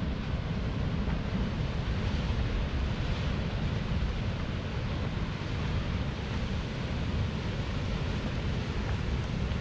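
Ocean surf washing steadily against a rocky shore, mixed with wind buffeting the microphone as a low rumble.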